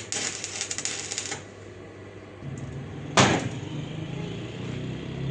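Workshop clatter: a rapid run of clicks for about a second and a half, then a low steady hum with one sharp knock that rings briefly.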